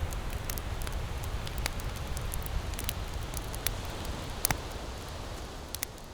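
Wood campfire crackling and popping in irregular sharp snaps over a steady low rush, with two louder pops in the middle; it fades down near the end.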